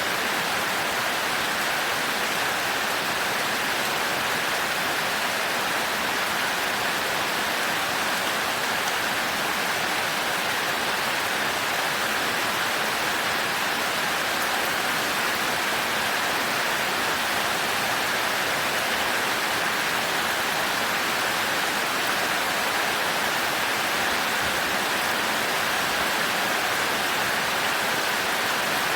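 Heavy rain falling steadily, an even, dense hiss with no break or thunder.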